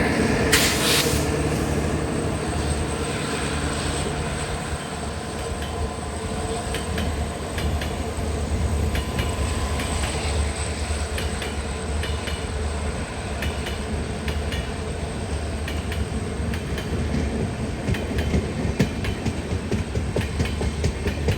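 Passenger express train rolling past: a steady rumble with repeated clicks of wheels over rail joints, and a short hiss about half a second in.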